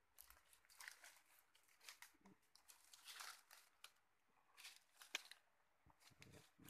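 Faint, irregular crackling and rustling, a run of small crinkles and clicks.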